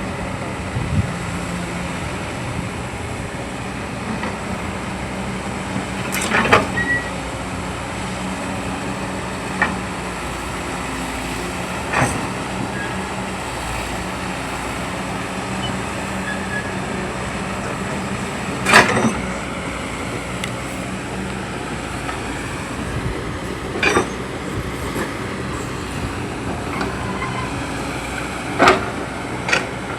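Excavator's diesel engine running steadily, with sharp metallic clanks every few seconds.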